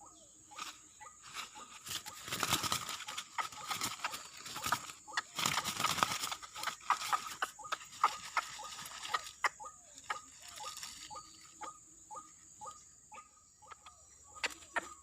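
Rustling and crackling handling noise in two louder bouts, about two and five seconds in, with scattered clicks throughout. Under it runs a steady high drone of crickets.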